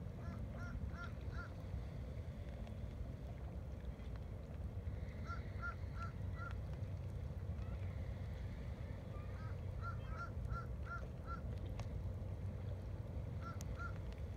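Birds calling in quick runs of short, clipped notes, four to six to a run, several times over, above a steady low rumble of the shore.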